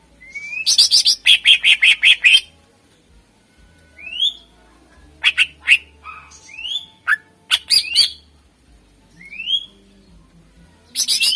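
Green leafbird (cucak ijo) singing in loud, choppy phrases. Upward-sliding whistles lead into fast runs of sharp, repeated notes, with a loud run about a second in and another just before the end.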